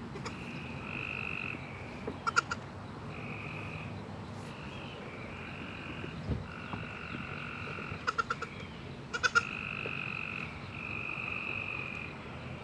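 Frogs calling in repeated steady trills, each about half a second to a second and a half long, over a low steady hum. A few short bursts of clicking come about two seconds in and twice near the end.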